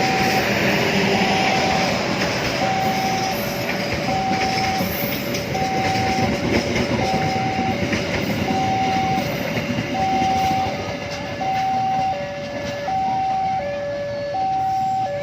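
A train rolling past on the rails with steady wheel noise, easing after about ten seconds, while a level crossing warning alarm sounds throughout as an electronic two-tone signal alternating high and low, about every second and a half.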